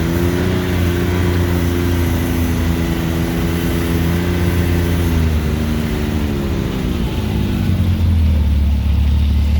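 Off-road vehicle engine running steadily on the trail, then easing off over a few seconds about halfway through as the vehicle slows to a stop, dropping to a low idle.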